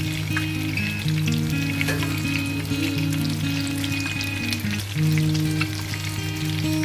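Eggplant slices sizzling as they fry in oil in a nonstick pan, with light clicks of a spatula and tongs turning them. Background music with held low notes plays throughout.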